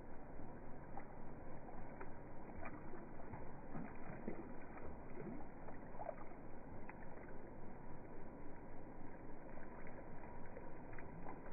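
Slowed-down water sound from swimming ducks: a low, muffled wash that pulses a few times a second, with a few short, drawn-out low calls.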